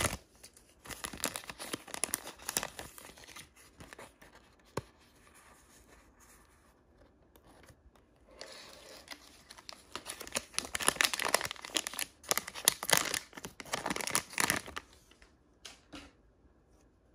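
Thin packaging wrapper being torn open and crinkled by hand. The sound comes in bursts of crackling: a spell at the start, a quieter pause, then a longer, louder stretch of tearing and crinkling. A few single crackles follow before it goes quiet near the end.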